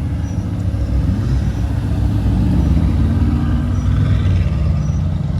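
A car engine running with a deep rumble, its pitch rising and falling a little in the middle, growing louder about a second in.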